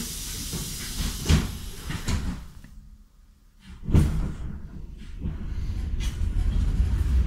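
Inside a regional passenger train: a fading hiss and a few knocks, then a heavy thump about four seconds in, after which a low rumble builds steadily as the train starts to move off.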